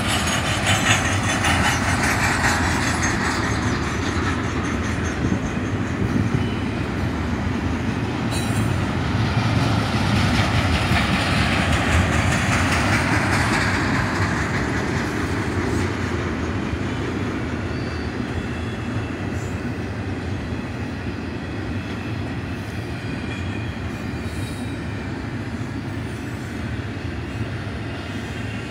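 Double-stack container well cars of a freight train rolling past on steel rails: a steady rumble and clatter of wheels on track. It is loudest in the first half and eases gradually through the second half.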